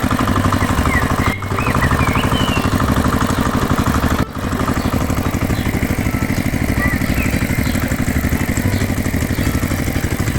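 Small engine running steadily with a fast, even chugging pulse, broken by two brief gaps, about one and a half and four seconds in.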